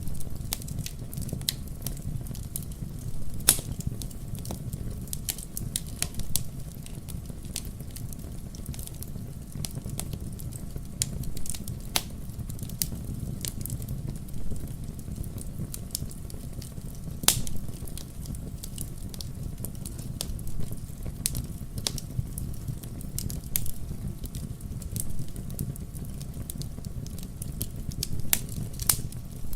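Wood fire burning in a fireplace: a steady low rumble of flames with irregular crackles and pops scattered throughout, a few of them sharper and louder.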